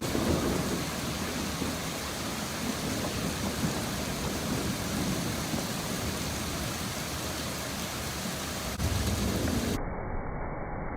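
Thunderstorm: steady hiss of heavy rain with low rolling thunder, and a sharp crack about nine seconds in followed by a louder rumble of thunder.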